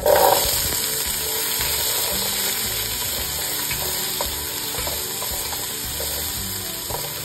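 Diced potatoes dropped into hot oil in a pan, starting a sudden loud sizzle that settles into steady frying. Light knocks of a wooden spatula stirring the cubes come through the sizzle.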